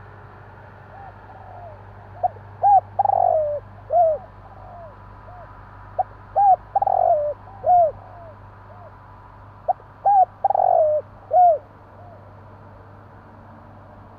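Spotted dove (tekukur) cooing: three phrases of short, arched coos, each about a second and a half long and about four seconds apart, with fainter coos in between. A steady low hum runs underneath.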